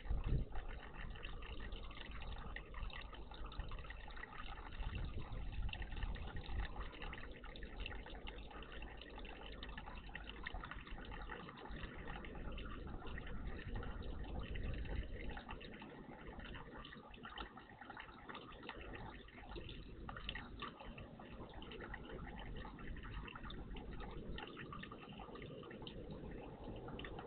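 Water steadily trickling and dripping in a garden bird bath, a continuous splashing patter.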